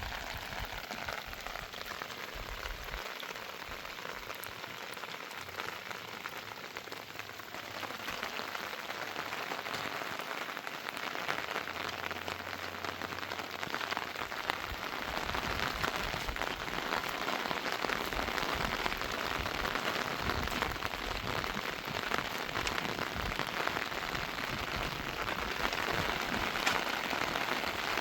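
Heavy rain falling as a steady, dense patter that grows louder about a third of the way through.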